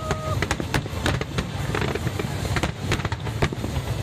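Aerial fireworks going off in a dense barrage: many sharp bangs and crackles, several a second, over a continuous low rumble. A brief steady whistle sounds at the very start.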